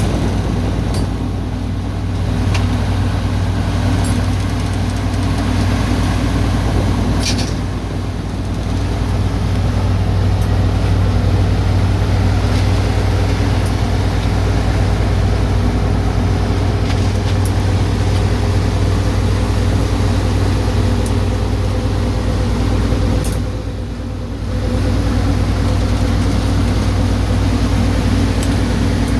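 Boat's diesel engine running steadily with a deep, constant hum. The level dips briefly three times.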